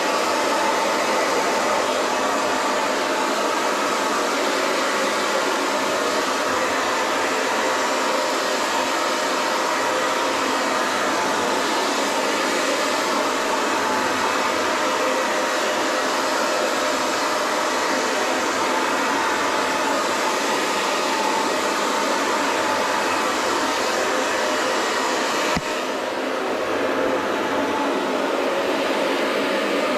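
Hand-held hair dryer blowing steadily, a loud even rush of air with a faint whine. A single sharp click comes near the end, with a brief dip in level.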